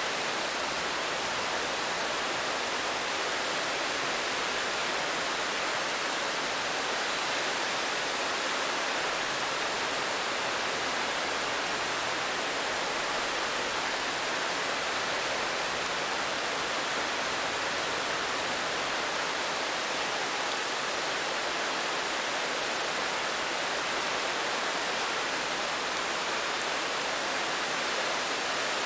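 Steady, even rain: a continuous hiss of falling rain with no distinct drops or changes.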